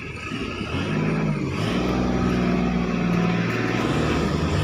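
A motor vehicle engine running steadily, growing louder about a second in and then holding an even pitch.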